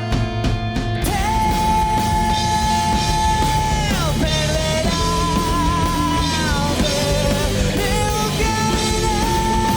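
Rock band playing a song with distorted guitars, bass and drums, a singer holding long notes that slide down at the ends of phrases. Sharp drum hits about the first second in.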